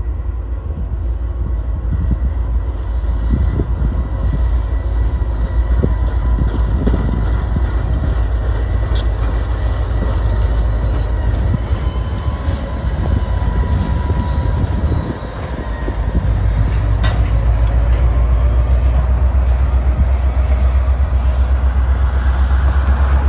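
A train running by on the rails: a heavy, steady rumble with thin whining tones from the wheels, and a sharp click about nine seconds in and again near seventeen seconds. The sound dips briefly a little past halfway, then picks up louder again.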